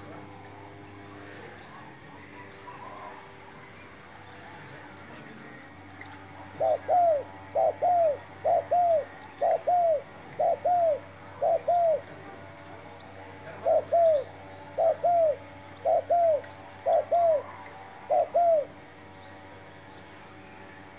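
Spotted dove cooing: a run of about eleven paired, arched coos starting some six seconds in, with a short pause midway, stopping a couple of seconds before the end. A steady high-pitched insect-like hiss runs underneath.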